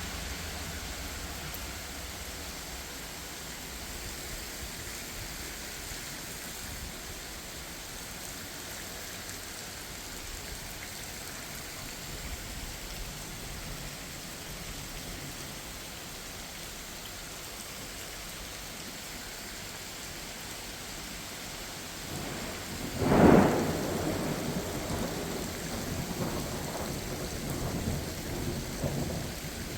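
Steady rain falling, then a loud thunderclap about three-quarters of the way through, followed by rolling thunder rumbling on.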